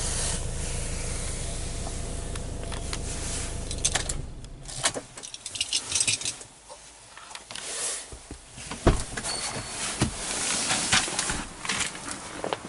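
Opel Mokka's 1.6 CDTI four-cylinder diesel idling, heard from inside the cabin, then switched off about four seconds in. After that come scattered clicks, knocks and rustling as someone moves about inside the car.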